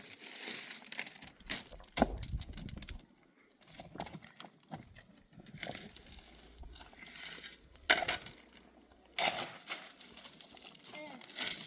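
Intermittent rustling and crinkling with a few sharp clicks and clinks, like objects being handled.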